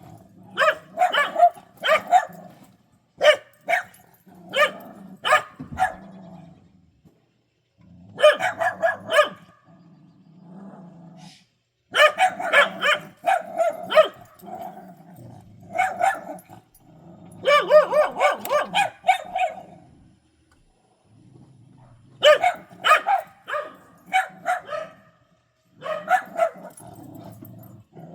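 Dogs barking repeatedly in volleys of several quick barks, with short pauses between volleys.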